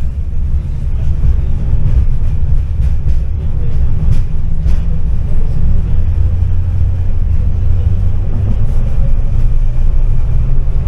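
Tram running: a loud, steady low rumble from its wheels and motors, with a few faint clicks a few seconds in.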